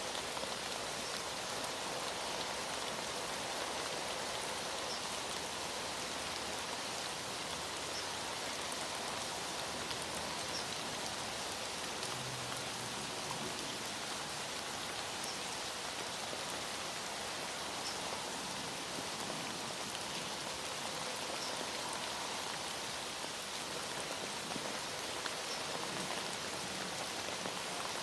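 Heavy rain falling steadily, an even hiss of rain with scattered droplet ticks.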